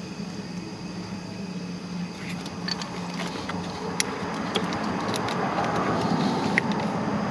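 A few light metallic clicks and handling noises as a lock washer and nut are fitted by hand onto the starter's B-positive stud, over a steady low hum, with rustling that grows louder in the second half.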